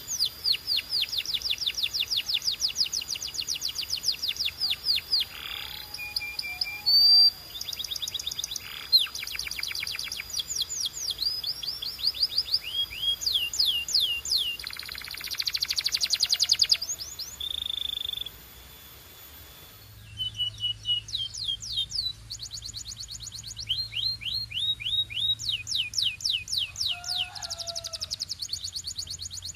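Domestic canary singing: fast trills of repeated falling notes, changing from one run to the next, with a pause of about two seconds past the middle before the song goes on.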